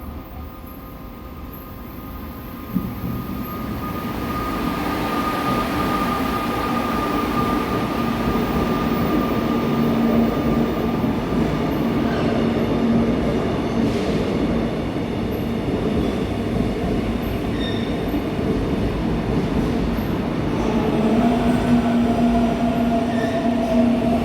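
Seoul Subway Line 4 electric train running at the platform, its rumble growing steadily louder over the first ten seconds, with steady whining tones from the train's drive above the noise.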